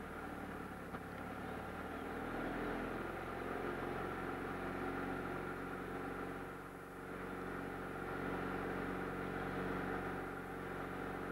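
Small car's engine running slowly and steadily, a continuous low hum with a brief dip about seven seconds in.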